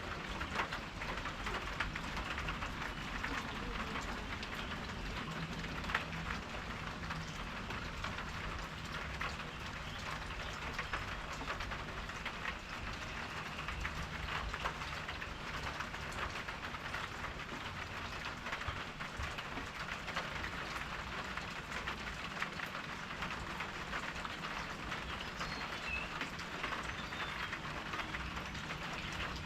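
Steady rain pattering: a dense, even patter of many small drops, with a low steady rumble underneath.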